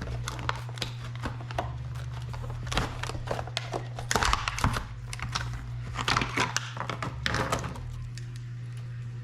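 Clicks and rattles of a Lew's Mach 2 spinning reel being handled and fitted onto a fishing rod's reel seat. They come in busy clusters and die away about eight seconds in, over a steady low hum.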